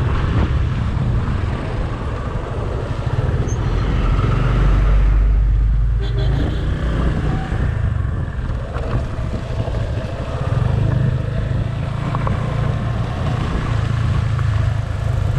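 Motorcycle riding on the road, heard from the rider: a steady engine drone mixed with wind and road rumble, heaviest about four to six seconds in.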